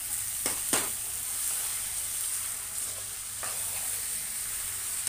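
Minced mutton (kheema) sizzling as it fries in a kadhai, stirred with a steel spoon that scrapes and clicks against the pan, a couple of knocks about half a second in and another after three seconds.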